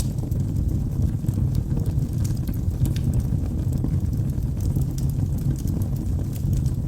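Log fire burning in a fireplace: a steady low rumble of flames with small, scattered crackles and pops.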